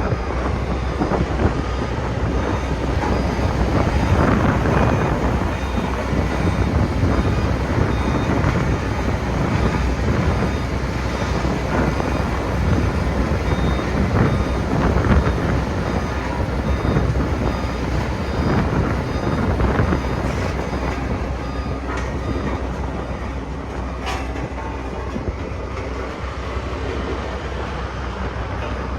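Sakai road roller working: its diesel engine and machinery running with a steady, dense rumble.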